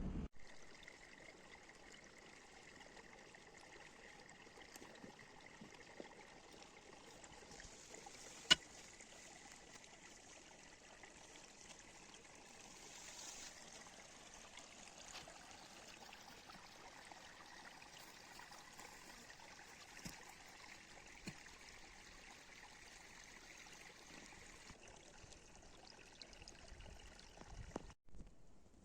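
Faint, steady running water, like a small stream, with a single sharp click about eight seconds in.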